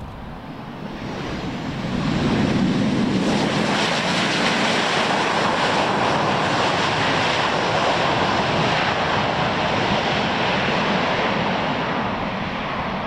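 Jet aircraft engines running loud: the twin turbofans of a Boeing P-8I Poseidon. The sound swells over the first two seconds, holds steady, and eases a little near the end.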